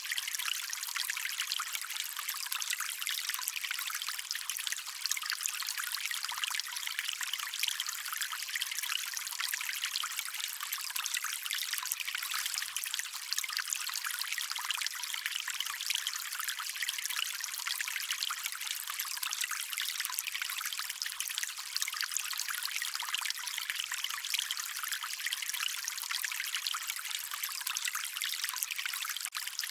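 Small stream of running water trickling and babbling steadily, its sound mostly high and bright with little low rumble.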